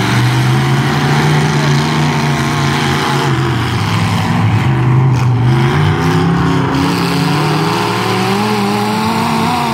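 Demolition derby truck engines running hard and revving, their pitch rising and falling repeatedly over a broad noisy haze.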